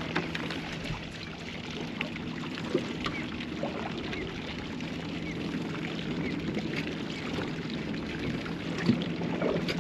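Water lapping and trickling against a small boat's hull, over a steady low hum, with scattered small clicks.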